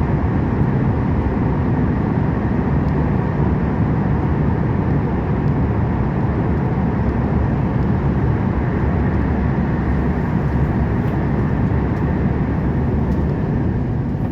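Volvo truck driving, heard from inside the cab: a steady drone of engine and road noise, low and unchanging.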